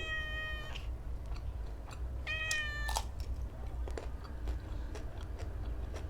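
A cat meowing twice, each meow short and high-pitched, with faint chewing clicks in between.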